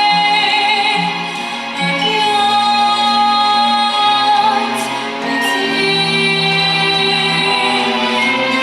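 Pop song with a backing track of long held chords, and a girl's voice singing over it.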